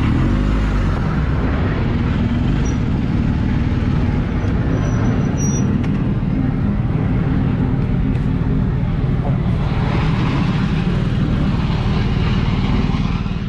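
A vehicle engine running steadily with road noise, the noise growing brighter from about ten seconds in.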